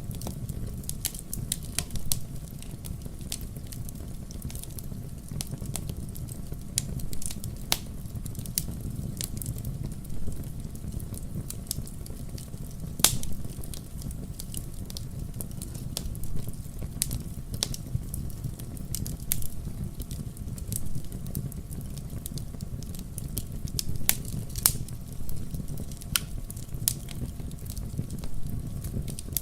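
Wood fire burning in a fireplace: a steady low rumble of the flames with frequent sharp, irregular crackles and pops, a few of them louder than the rest.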